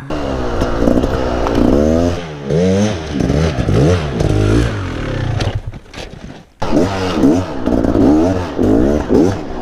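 Dirt bike revving hard up and down in quick surges, as on a rider's attempt at a steep climb. It drops off briefly about six seconds in, then surges again.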